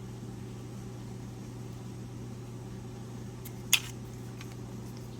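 Steady low hum from a fan or motor, with one sharp click about three and a half seconds in.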